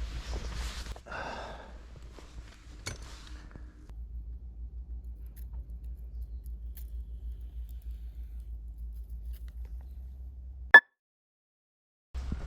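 Faint rustling and a few light clicks over a steady low rumble, ending in one sharp click and then abrupt silence.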